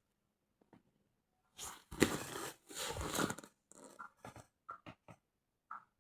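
Crinkling, crunching noise in two bursts, followed by a series of small clicks and taps.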